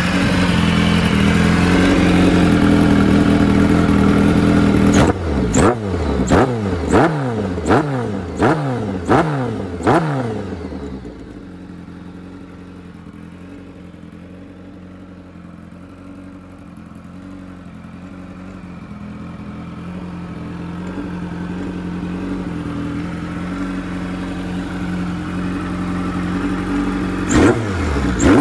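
Kawasaki KZ1100R's bored-out 1135cc inline-four engine running loud and steady, then blipped sharply about six times in quick succession, each rev falling back in pitch. It then settles to a quieter, steady running that slowly grows louder, with another blip near the end.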